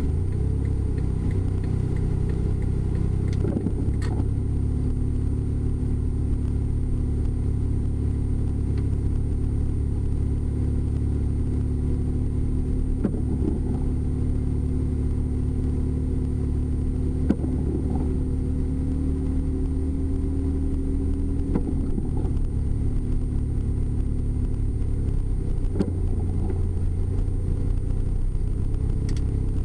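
Car driving, its engine and road noise a steady low drone, the engine's pitch drifting slightly up and down, with a few faint clicks.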